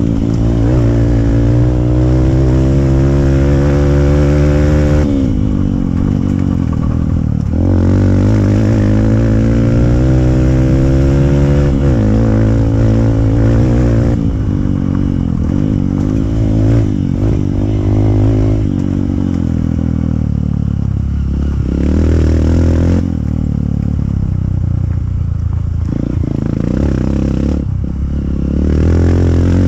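Hero Impulse 150 cc single-cylinder four-stroke motorcycle engine through a free-flow exhaust, ridden off-road. The revs climb steadily and drop sharply twice, at about five and twelve seconds in, then rise and fall unevenly at lower revs for the rest of the stretch.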